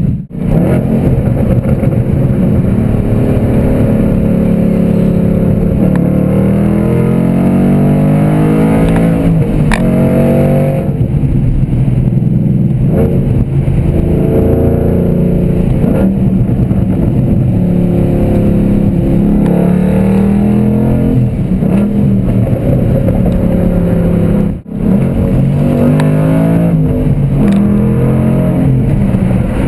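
2012 Ford Mustang Boss 302's 5.0-litre V8 running loud through a Flowmaster Outlaw axle-back exhaust with the baffles removed, revving up and dropping back several times, the pitch climbing steeply about six to ten seconds in. The sound breaks off briefly twice, right at the start and about 25 seconds in.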